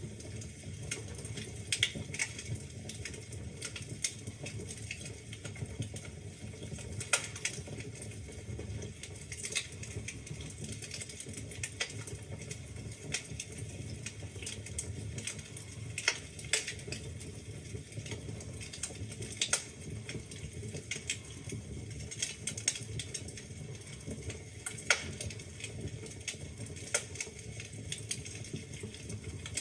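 Wood fire burning in a fireplace, with a steady low rumble and irregular crackles and sharp pops from the burning logs.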